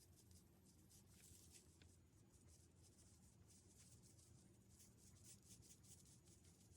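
Faint, irregular scratchy swishes of a paintbrush stroking across paper.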